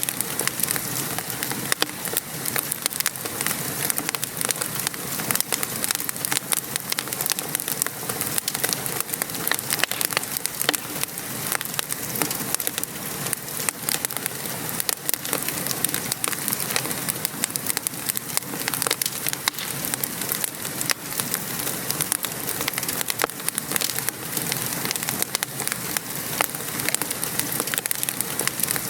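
Wood fire crackling with frequent small pops, over a steady patter of rain.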